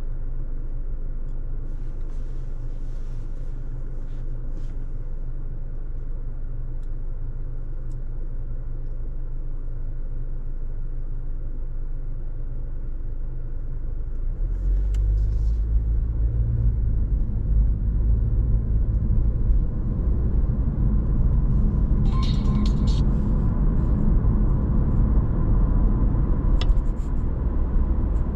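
Steady road and running rumble inside a Honda ZR-V's cabin while driving. It grows louder and heavier about halfway through, with a few brief crackles later.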